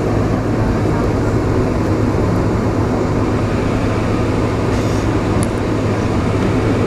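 Steady cabin noise inside a Boeing 747-436 on the ground, its four Rolls-Royce RB211 engines running at low taxi power. The noise is an even rush over a constant low hum.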